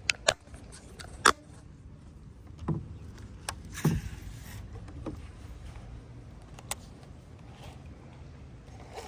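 Handling noise on a fishing kayak: scattered sharp knocks and clicks, the loudest about a second in and just before four seconds in, over a low steady rumble.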